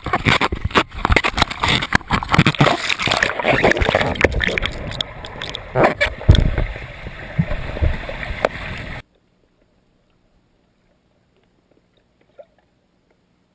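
Churning whirlpool water splashing and gurgling close against the microphone of a camera dipped into the current, full of irregular knocks and crackles. It stops abruptly about nine seconds in, leaving near silence.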